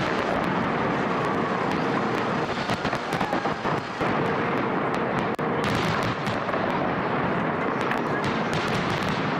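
Aerial fireworks display going off in a dense, continuous barrage: many overlapping bangs and crackles of bursting shells.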